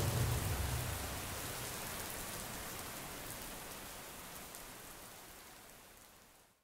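Steady rain falling: an even hiss with faint scattered drop ticks, fading out gradually to silence at the end. A low rumble dies away in the first second.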